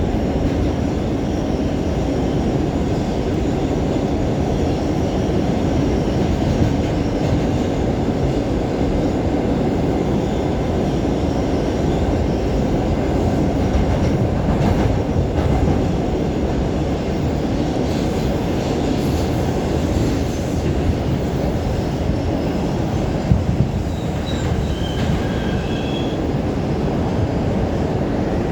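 New York City Subway 5 train running at speed through the tunnel, a steady loud rumble of wheels on rails, with a few brief faint high squeals near the end.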